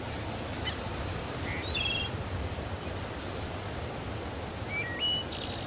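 Rainforest ambience: a steady hiss of background noise with scattered brief, high bird chirps and whistles. A thin high steady tone fades out about two seconds in.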